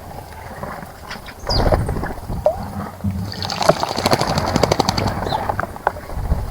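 Small birds bathing in a bird bath: bursts of splashing water and fluttering wings, densest in a rapid run of splashes over the second half, with a few short chirps.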